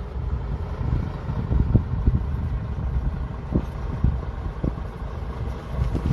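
Low, steady rumble of heavy machinery diesel engines running, with irregular low thumps of wind buffeting the microphone.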